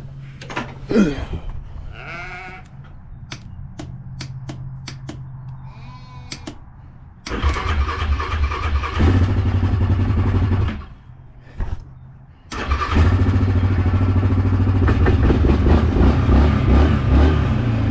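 Four-wheeler (ATV) engine starting about seven seconds in, running briefly and dying, then catching again a moment later and running steadily. Before it come a series of sharp clicks.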